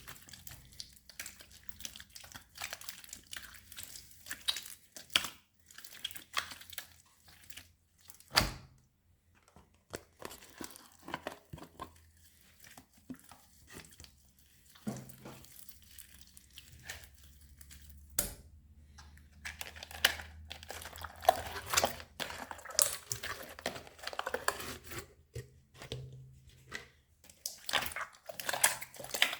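A big mass of old slime being squished and stretched by hand, with dense irregular crackling and popping that grows busier in the second half. There are two sharp knocks, one about eight seconds in and one about eighteen seconds in.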